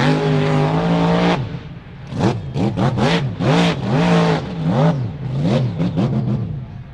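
Mud truck engine held at high revs for about a second and a half, then revved up and down over and over, about twice a second.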